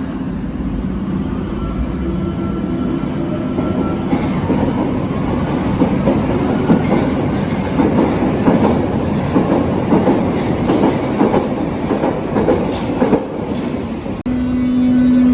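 Berlin U-Bahn large-profile train running on the track, its wheels rumbling and clattering over the rails, growing louder with dense clatter in the second half. Near the end the sound cuts off abruptly and a steady low hum takes over.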